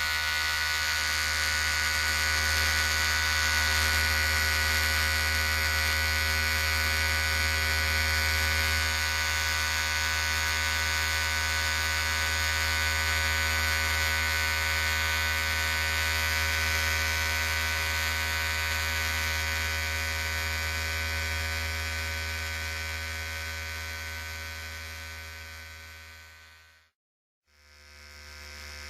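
Electric hair clipper running with a steady, even buzz. Near the end it fades out, stops for a moment, then fades back in.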